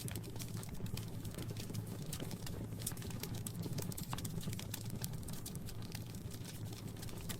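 Wood fire crackling in a fireplace: dense, irregular sharp pops and snaps over a steady low rumble of the burning fire.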